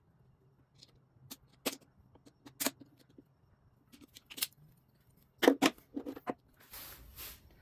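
Hand tools clicking and clinking against metal motorcycle engine parts: a dozen or so sharp, scattered ticks, loudest in a quick cluster about five and a half seconds in, then a brief rustle near the end.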